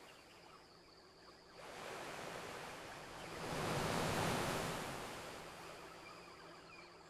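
Ocean waves washing onto a beach: a quiet lull, then a surge that builds to its loudest about four seconds in and slowly draws back.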